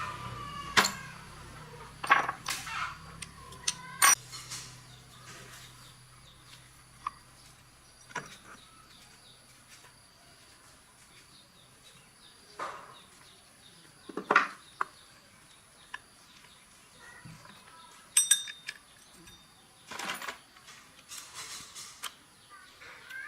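Irregular clinks and knocks of metal tools and motorbike parts being handled and set down, a couple with a short metallic ring.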